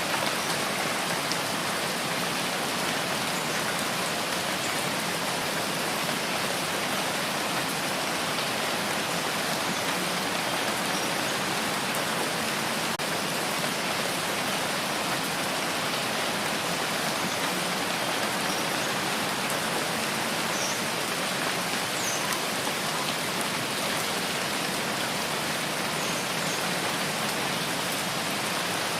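Steady rain falling: an even hiss that holds one level throughout.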